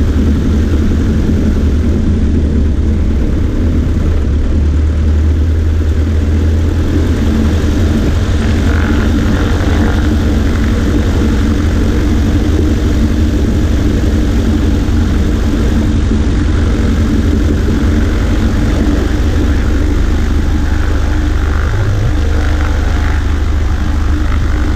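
Cessna 140A's piston engine and propeller in flight, a loud steady drone with rushing air over it.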